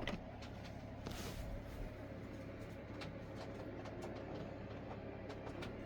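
Faint handling noise: one sharp click at the start, then scattered light clicks and taps over a low steady hum.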